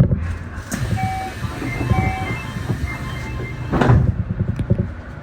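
Electric commuter train with a steady low rumble and a few knocks, the loudest about four seconds in. A short electronic chime of several beeping notes sounds about a second in.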